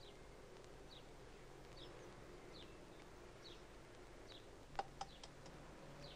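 A small bird's short, falling chirp, faint and repeated about once a second. Two sharp taps sound about two-thirds of the way through.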